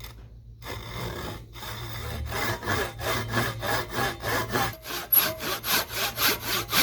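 Repeated back-and-forth strokes of a hand tool cutting into an American chestnut hammer handle. The strokes start under a second in and settle into a quicker, even rhythm of about three a second in the second half.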